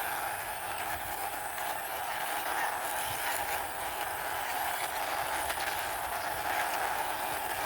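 Small plastic wheels of a toy car rolling steadily as it is pushed along by hand, a continuous grainy rumble.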